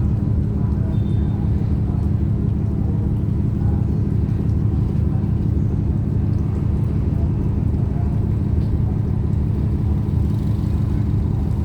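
Large ship's diesel engines running steadily: a low, even rumble with a constant hum.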